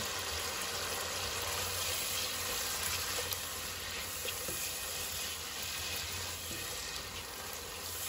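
Prawns sizzling steadily in oil and spices in a non-stick pan, stirred with a silicone spatula, with a few faint ticks and a steady low hum underneath.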